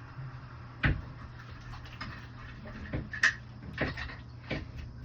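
Scattered sharp clicks and knocks of backflow test gear being handled: fittings, test cocks and valves worked by hand while the second check is set up, over a steady low hum.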